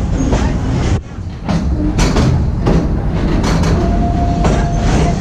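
Narrow-gauge park train running along its track, heard from aboard an open passenger car: a steady heavy rumble with irregular clacks of the wheels over the rails, and a thin squeal held for about a second near the end.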